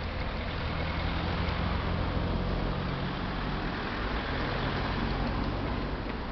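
Motor vehicle engine running close by over street traffic noise, a steady low hum that is loudest around two seconds in and fades away in the last couple of seconds.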